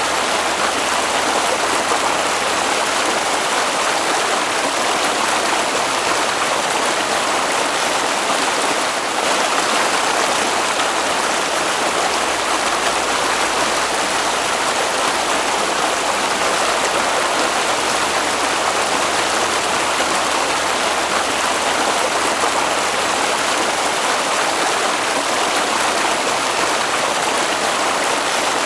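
Water flowing in a stream, a steady, even rushing with no change in level.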